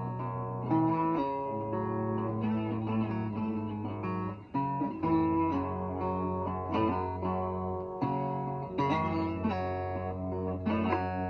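Blues guitar playing an instrumental passage: picked notes over sustained low notes.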